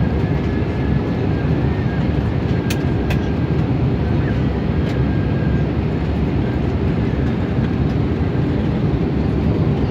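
Steady cabin noise inside an Airbus A320neo airliner, a low even rumble of engines and airflow. A few light clicks come about three and five seconds in.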